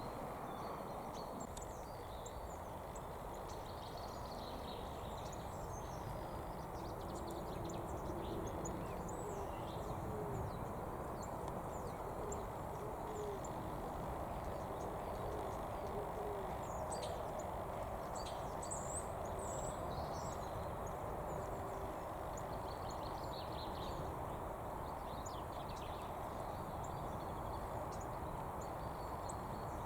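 Pigeon cooing in short low phrases, mostly between about six and sixteen seconds in, while small birds chirp high and scattered over a steady outdoor rumble.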